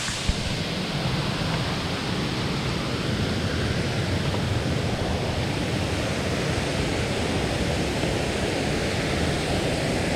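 Steady rush of water from a rain-forest waterfall.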